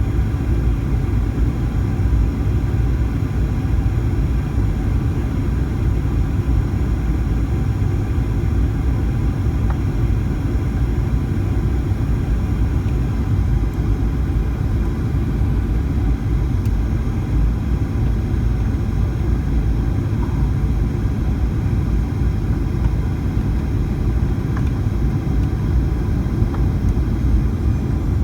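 Steady rumble of a Boeing 737-900ER heard from inside the passenger cabin, its engines and airflow giving an even low roar with faint steady whines above it.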